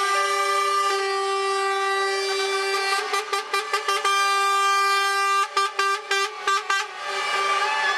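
Truck air horns blaring, several sounding together at different pitches, held long and then broken into quick runs of short toots twice. Near the end a gliding, falling wail joins in.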